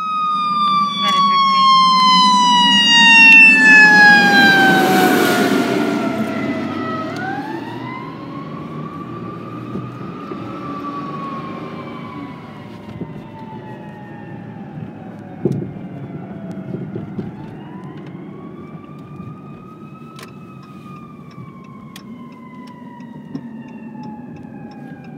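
Fire engine siren wailing, its pitch falling slowly for several seconds, then winding up and falling again twice, over the truck's engine rumble. Loudest in the first few seconds, then fading, with a single sharp knock about halfway through.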